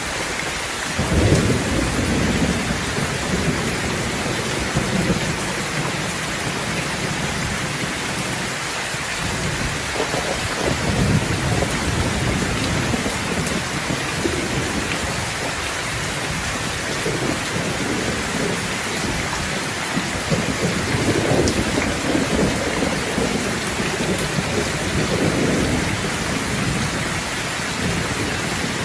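Steady heavy rain falling on surfaces, with rolls of thunder rumbling low several times: about a second in, around ten seconds in, and again in the later part.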